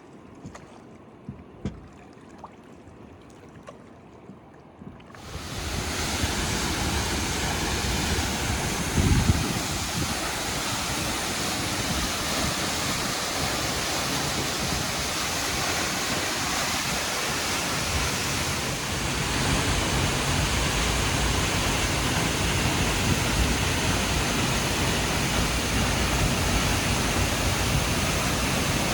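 A few seconds of quiet with a few light clicks, then, about five seconds in, a sudden cut to the steady roar of rushing white water, which runs on unbroken.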